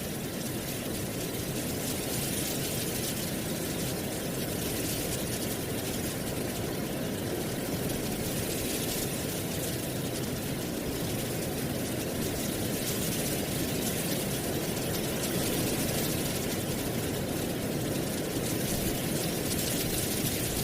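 Wind blowing through dry autumn leaves: a steady rustling hiss with fine crackle, swelling slightly in the second half.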